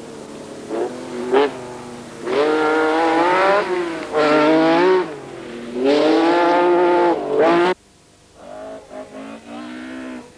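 Rally car engines revving hard through the gears in several loud bursts, the pitch climbing in each. About three quarters of the way through the sound cuts off suddenly and a quieter engine is heard.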